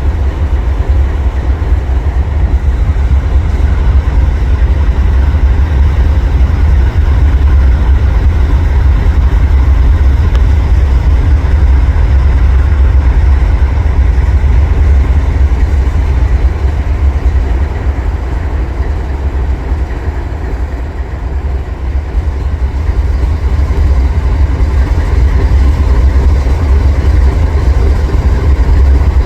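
Freight train on the line: a loud, steady, deep rumble that eases briefly about two-thirds of the way through.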